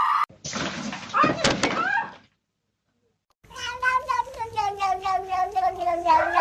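Domestic cat meowing: a few short calls over background noise, then after a short break one long drawn-out yowl of about three seconds, wavering and slowly falling in pitch.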